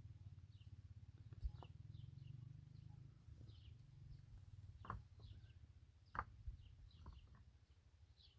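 Near silence with faint, scattered chirps of small birds over a low steady hum, and two soft knocks about five and six seconds in.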